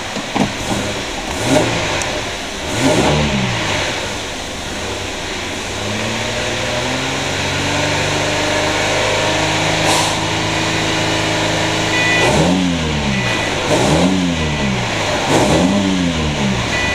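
A 2003 Holden Commodore's 3.8-litre V6 is revved with the car standing still, heard from inside the cabin. It gets two quick blips first, then a slow climb to high revs that is held for several seconds, then three more quick blips near the end.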